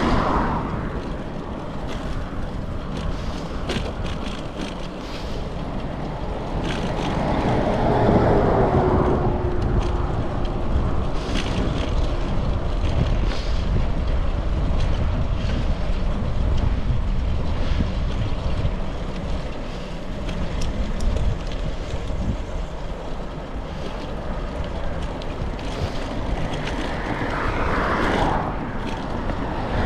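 Wind on the microphone and road noise from a moving bicycle. A vehicle passes about eight seconds in, its tone dropping as it goes by, and another passes near the end.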